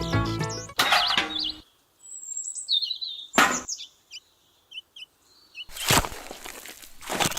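Music cuts off about a second and a half in, then birds chirping in short high calls. A single sharp knock comes a little after three seconds, and brief noisy clatters come near the end.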